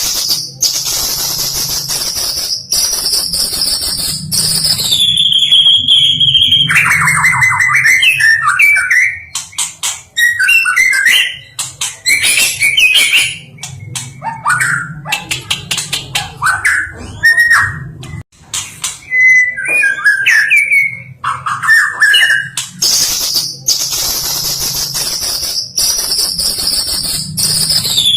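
White-rumped shama (Medan murai) song: a loud, varied run of high whistled notes that step down in pitch, rapid trills and warbled phrases, packed with mimicked fill-in phrases. The opening phrases come round again near the end, as in a looped recording.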